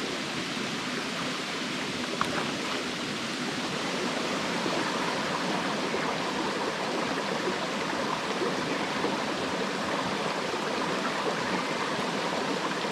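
Steady rushing noise like running water, getting slightly louder about four seconds in.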